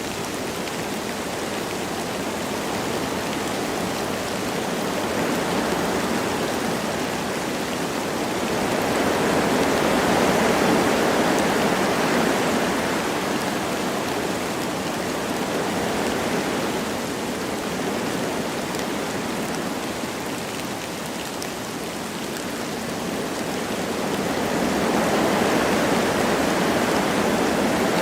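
Wind blowing through forest trees in slow gusts that swell and ease, with light rain falling.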